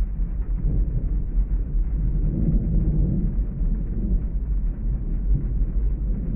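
Thunderstorm ambience: a steady, muffled low rumble with thunder rolling and swelling through the middle, and no high rain hiss.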